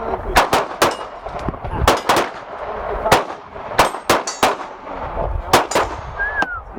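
Gunshots at an outdoor range, about a dozen sharp reports at irregular intervals, some with a metallic clang.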